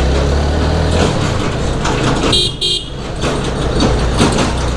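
Motorcycle engine running while riding. About two and a half seconds in there are two short, high-pitched horn beeps in quick succession, while the engine sound briefly drops away.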